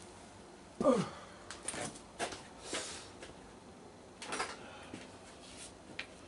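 Scattered soft knocks and rustles of offcut pieces of wood being picked up and handled, with a short murmured vocal sound falling in pitch about a second in.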